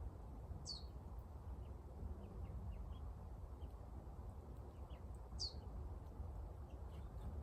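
Small birds calling: two short high calls, each falling sharply in pitch, about five seconds apart, with a few faint short chirps between them, over a steady low outdoor rumble.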